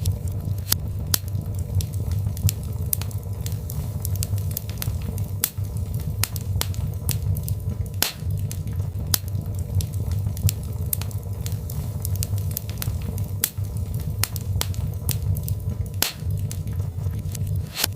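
Birch logs burning in a fireplace, crackling with frequent irregular sharp pops and snaps over a steady low rumble of the fire.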